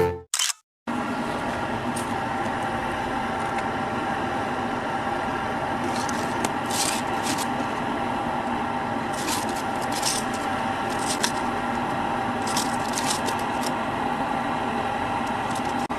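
A steady hum with a few brief light scratching sounds.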